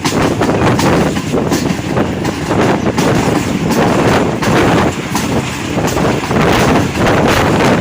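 A moving passenger train heard from on board: a steady loud rumble with wheels clattering over the rail joints in quick, uneven knocks.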